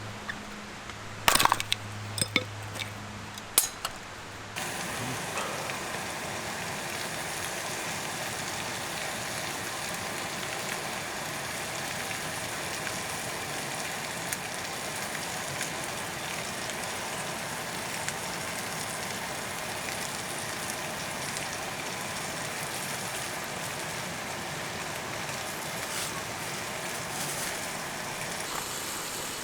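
A few sharp clinks and knocks over a low hum, then about four and a half seconds in a steady crackling sizzle starts and keeps going: food frying in a hot pan.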